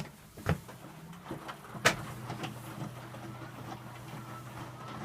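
Electrolux W455H commercial washing machine mid-wash: the drum motor starts a little over a second in and runs with a steady low hum, with several sharp knocks and clicks, the sharpest about two seconds in.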